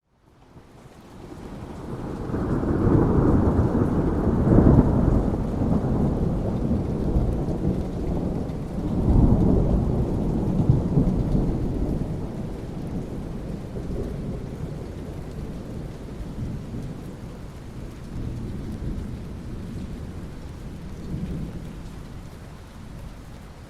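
A long roll of thunder over steady rain: the rumble builds over the first couple of seconds, swells twice, then slowly dies away while the rain keeps falling.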